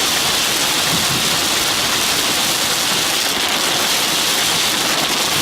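Heavy downpour beating on a moving car, heard from inside the cabin as a steady, even rush of rain.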